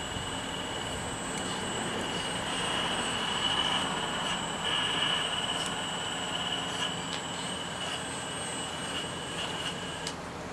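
Radio-controlled excavator's small electric motor whining steadily, swelling a little in the middle and cutting off suddenly about ten seconds in.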